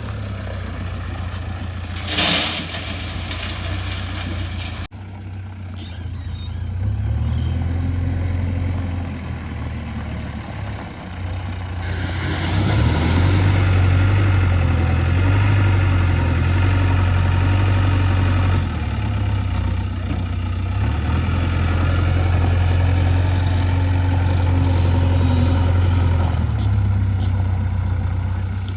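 JCB 3DX backhoe loader's diesel engine running, revving up and settling back in several stretches as it works. There is a short burst of noise about two seconds in.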